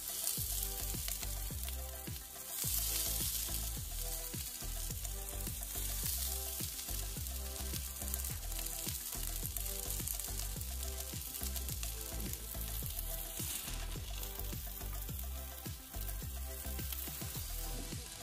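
Chopped onions, garlic and green chillies sizzling in hot oil on a flat-top griddle, a dense steady hiss that swells about two and a half seconds in. Background music with a steady beat plays underneath.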